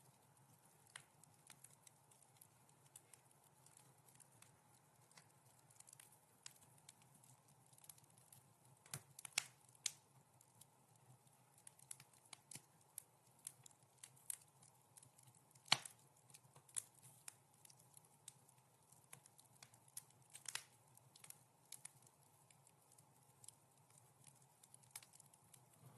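Wood fire crackling softly: irregular small pops and snaps, a few sharper ones standing out, over a faint steady hum.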